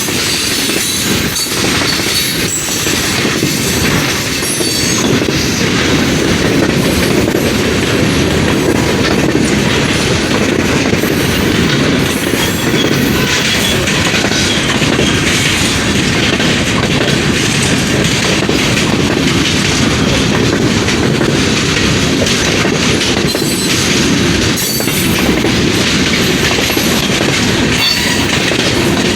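Freight train cars of the De Queen & Eastern shortline rolling steadily past, wheels clacking over the rail joints.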